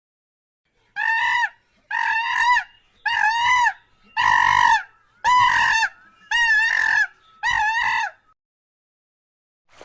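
A domestic fowl calling seven times in a row, about once a second. Each call is a short, loud, pitched note that rises and falls, with silence between the calls.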